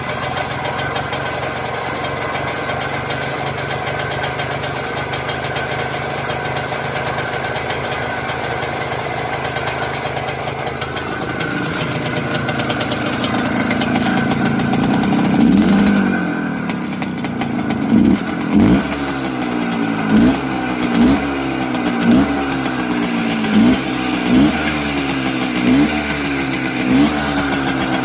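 Izh Planeta Sport single-cylinder two-stroke motorcycle engine idling, then rising in revs midway and dropping back. It then gets a series of short throttle blips, roughly one a second.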